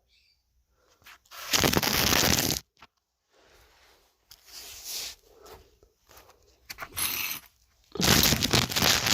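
Rustling, scraping handling noise in two loud bursts of about a second each, one early and one near the end, with fainter rustles between them.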